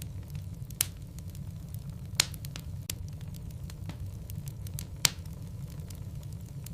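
Logs burning in a fireplace: a steady low rumble of the flames with sharp wood crackles and pops scattered through it, three of them louder than the rest.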